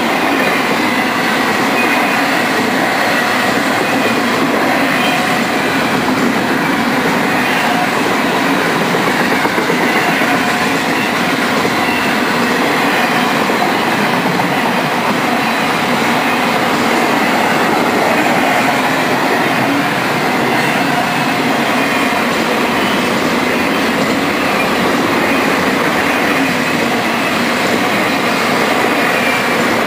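CSX intermodal freight train's container cars rolling past: a steady, loud rumble and rattle of steel wheels on rail, with a thin high squeal on top.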